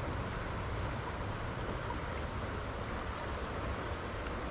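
Steady rush of fast-flowing river water over a riffle.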